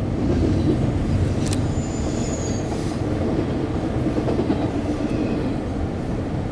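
Intermodal freight train cars rolling past, a steady rumble of steel wheels on the rails. A sharp click comes about a second and a half in, and a brief high, thin squeal follows just after.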